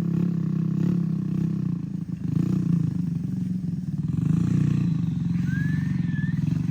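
Moped with a swapped-in engine running steadily. The engine sound dips briefly about two seconds in, then picks back up.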